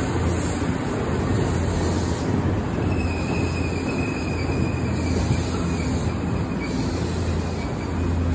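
Sanyo Electric Railway commuter train rolling slowly alongside the platform as it comes in, with a steady low rumble. A faint high squeal rises about three seconds in and fades a few seconds later.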